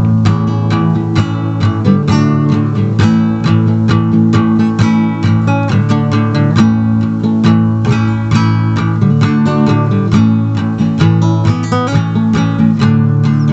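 Instrumental music: acoustic guitar played in quick, steady strums and plucked notes, with no voice.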